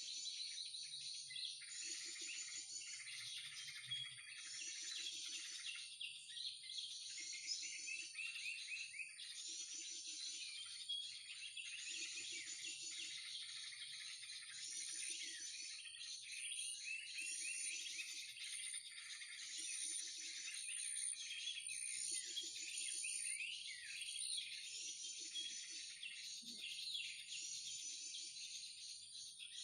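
Bird-trapping lure recording of a combined chatter of many small birds ('krucukan'), played on a loop: dense high twittering that repeats in the same phrase about every two seconds, over a steady faint high whine.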